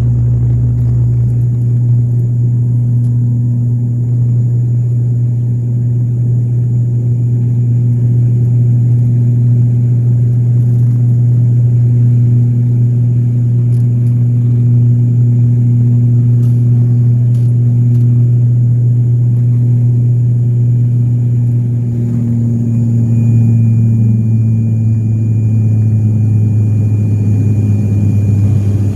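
Aeroplane engines droning steadily: a loud low hum with a few fixed tones above it. About 23 seconds in the hum shifts slightly lower and a faint high whine joins it.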